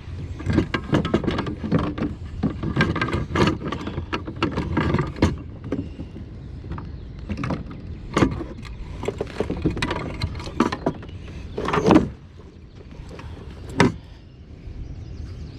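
Irregular knocks, thumps and clatters of gear and handling on a plastic sit-on-top fishing kayak, with two louder bangs about 12 and 14 seconds in.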